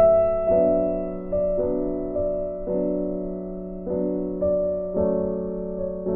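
Background music: soft piano chords played slowly, struck about once a second and left to ring and fade.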